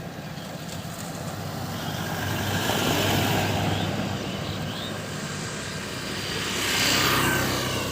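Motor vehicle traffic: a steady engine hum with two louder swells, about three seconds in and again about seven seconds in, like vehicles passing by.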